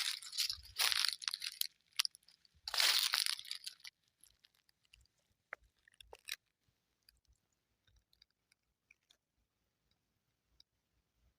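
Footsteps crunching on the forest floor, a few steps in the first couple of seconds and one longer crunch about three seconds in, then the walking stops. Only faint scattered small crackles and ticks follow.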